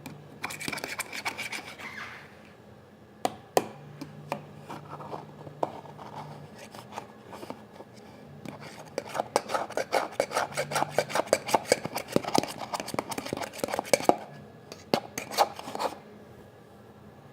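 Homemade soap slime being squished and worked by hand: runs of quick sticky clicks and rubbing that come in bursts, the longest and densest a little past the middle.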